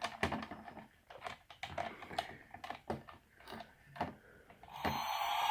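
Irregular plastic clicks and taps as a small toy police helicopter is handled. Near the end its electronic siren sound effect switches on, a loud steady tone.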